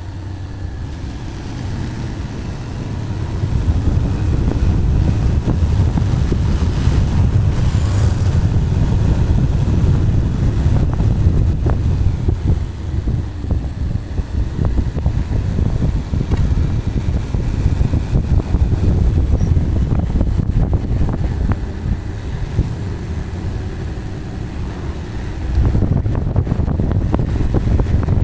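Wind buffeting a helmet-mounted microphone on a moving Bajaj Pulsar 220, its single-cylinder engine running beneath the rush. The sound grows louder about four seconds in, eases a little a few seconds before the end, then rises again.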